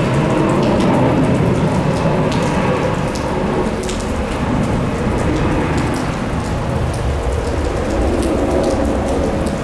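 Heavy rain falling steadily, with scattered sharp drop hits and a low rumble underneath.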